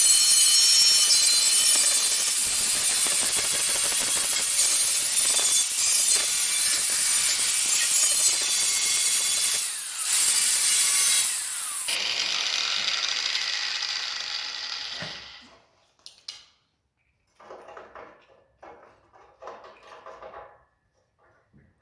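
A power tool running hard with a high whine, easing off about twelve seconds in and stopping a few seconds later. It is followed by a few short, light knocks.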